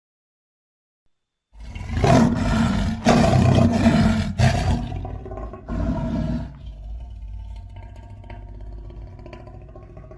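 Monster roar sound effect built from animal and creature roars: silence, then a long loud roar starting about a second and a half in, a shorter second roar a little later, and a quieter low growl trailing off near the end.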